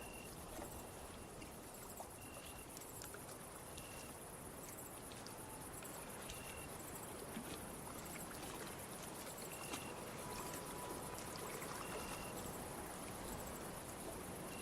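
Ambient recording of gently moving water with crickets: a steady high insect trill and short chirps every second or two.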